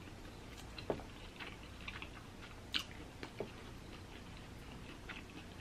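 A person quietly chewing broiled lobster tail meat, with a few soft mouth clicks and smacks.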